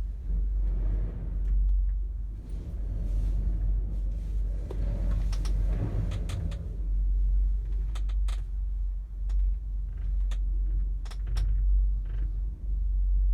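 A gondola cabin creaking and clicking as it rides down the cable, with about eight sharp clicks mostly in the second half, over a steady low rumble.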